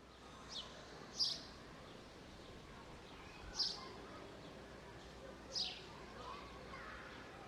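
A bird giving short, high, downward-sliding chirps, four in all and spaced one to two seconds apart, over a steady background hum of outdoor park ambience.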